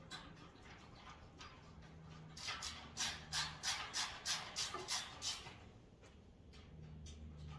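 Hand ratcheting screwdriver tightening bolts on a metal tool rack: faint ticking at first, then a run of sharp ratchet clicks, about four a second, for about three seconds in the middle before it stops.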